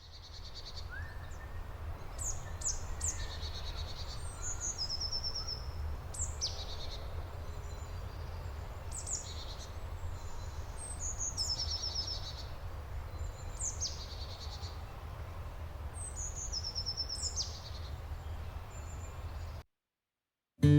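A forest bird calling over and over: a high falling note followed by a quick run of short notes, repeated every two to three seconds, over a low steady rumble.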